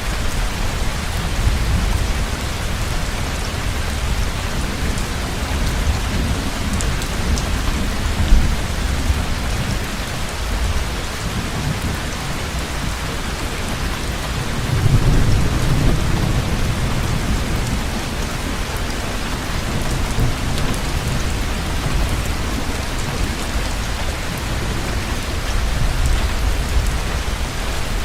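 Heavy rain falling steadily, with thunder rumbling low underneath; a louder roll of thunder swells about halfway through.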